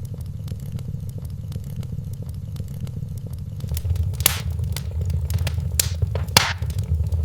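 Wood fire in a fireplace crackling: many small ticks over a steady low rumble, with a few sharper, louder pops in the second half.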